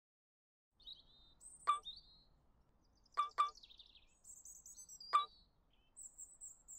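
Quiet birdsong: scattered high chirps and trills with a few short, sharp calls, starting about a second in.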